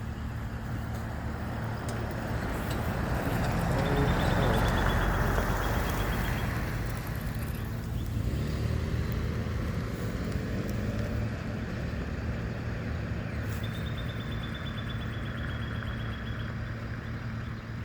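Garbage truck's engine running with a steady low hum; a louder swell of noise rises and peaks about four to six seconds in, and a rising whine comes in around eight to eleven seconds.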